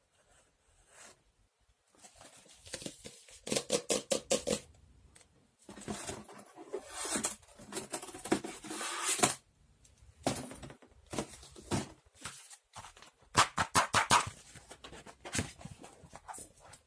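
Small objects being handled by hand: irregular bursts of rustling, scraping and light clicks, with short pauses between them.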